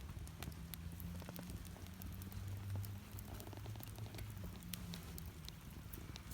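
Wood fire burning in a Solo Stove Campfire, a double-walled stainless steel stove that burns its smoke in a secondary burn, with frequent sharp crackles and pops from the burning wood.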